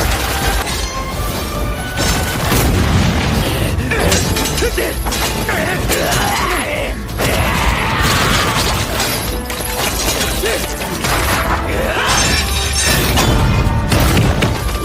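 Anime fight-scene soundtrack: dramatic music mixed with repeated sharp impacts, metallic clashes and crashes.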